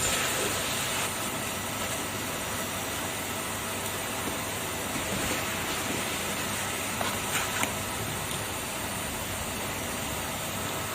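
Kärcher vacuum cleaner running steadily with an even rushing hiss, with a couple of short clicks about seven seconds in.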